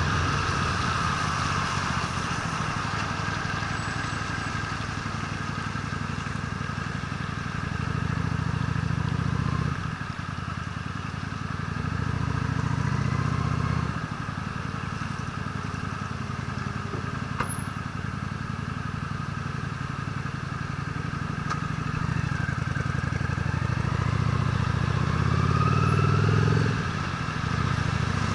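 Honda Steed's V-twin engine running as the motorcycle is ridden, the throttle opening and easing off several times, over a steady rushing noise.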